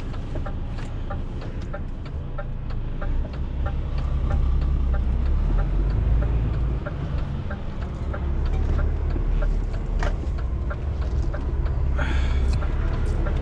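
Semi truck's diesel engine running with a steady low rumble that grows louder about three and a half seconds in as the truck pulls away. Regular ticking of the turn indicator runs over it inside the cab.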